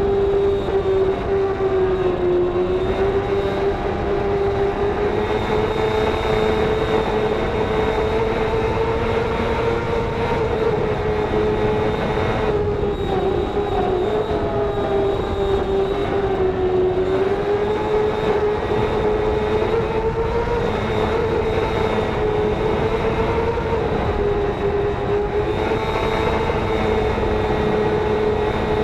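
Racing motorcycle engine running hard at high revs, its pitch wavering slightly up and down with the throttle, over steady wind rush.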